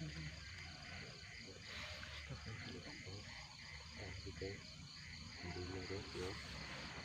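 Night insects chirping in a steady, evenly repeating pulse, over a low hum.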